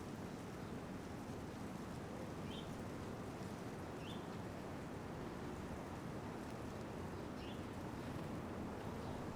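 Three short, faint chirps from a small bird at a feeder, spread over several seconds, over a steady low background rumble.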